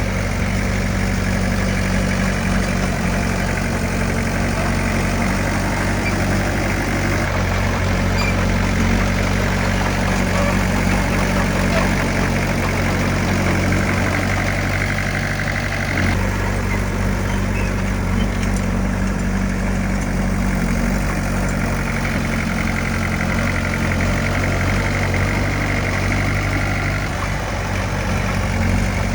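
Heavy diesel engine of earthmoving machinery running steadily, its note shifting slightly about halfway through.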